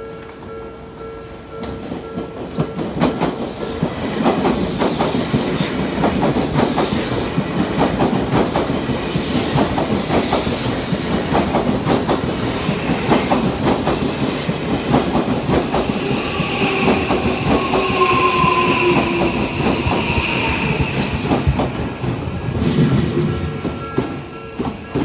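Odakyu Line electric train passing through a level crossing: wheels clattering over the rail joints amid a loud rush of noise for about twenty seconds, with a whine that falls slightly in pitch about two-thirds of the way through. The crossing warning bell's steady tone is heard at the very start, before the train drowns it out.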